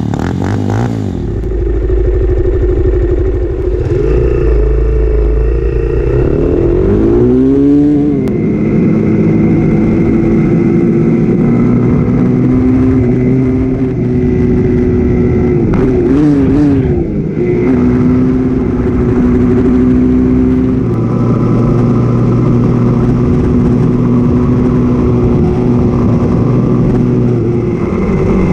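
Dirt bike engine running steadily, with the revs briefly rising and falling a few times.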